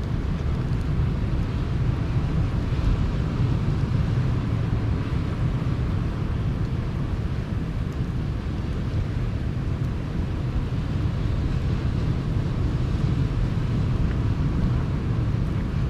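Sea surf washing steadily onto the shore, a continuous deep rumble with a hiss of breaking water over it.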